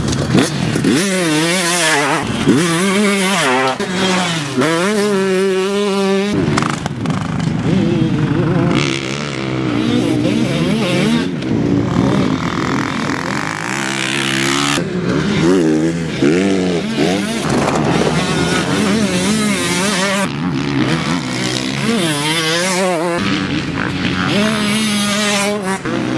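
A 2014 KTM 150SX's single-cylinder two-stroke engine being ridden hard, its pitch climbing and dropping again and again as the rider accelerates, shifts and backs off the throttle.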